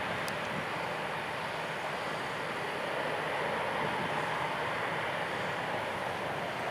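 Boeing 737-700's CFM56-7B jet engines running, a steady rushing noise with no change in level, and a brief faint tick about a quarter second in.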